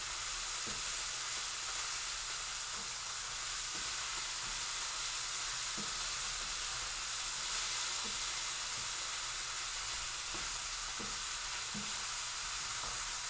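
Diced chicken with garlic, ginger and coriander sizzling in a skillet on high heat, a steady frying hiss. A few light taps of the utensil are heard as it is stirred.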